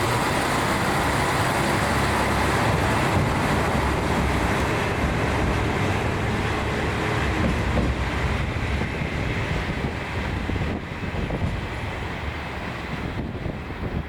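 Kashima Rinkai Railway diesel railcar running along the line, a steady mix of engine hum and wheel-on-rail noise that eases off a little in the last few seconds.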